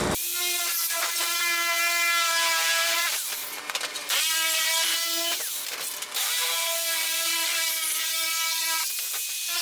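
Electric sheet-metal shear cutting steel sheet: a steady motor whine with a rasping cutting noise. It runs in three stretches, stopping briefly twice as the cut is repositioned.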